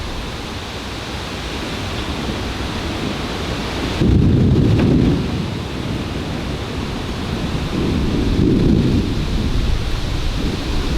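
Thunder rumbling over steady rain: a sudden loud low rumble about four seconds in, then a second, weaker swell of rumble a few seconds later.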